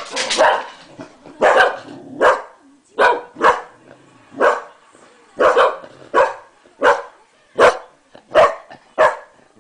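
English Cocker Spaniel barking repeatedly in short, sharp barks, about one a second or a little faster, set off by a person's sneeze.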